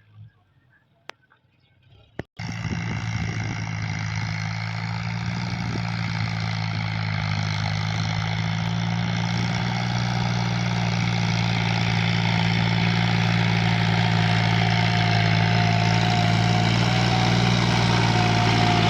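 John Deere 5055E tractor's three-cylinder diesel engine running steadily. It cuts in abruptly about two seconds in, after a moment of near silence with two short clicks, then slowly grows louder, with a faint wavering whine near the end.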